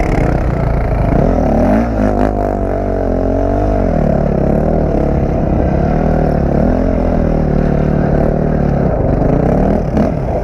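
Dirt bike engine running hard and revving up and down as the rider works the throttle.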